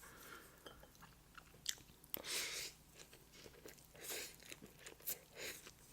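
A person chewing a mouthful of pepperoni flatbread pizza close to the microphone, with irregular short wet mouth noises, the strongest about two seconds in and more around four and five seconds in.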